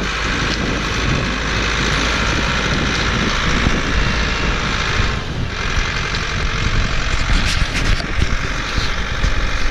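Ford 5610 tractor's diesel engine running steadily under load while hauling logs, with a constant rumble and a broad rushing noise that thins briefly about halfway through.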